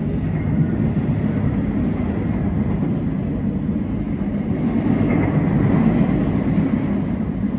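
A train running past on the rails below: a steady, heavy low rumble that swells a little about two-thirds of the way through.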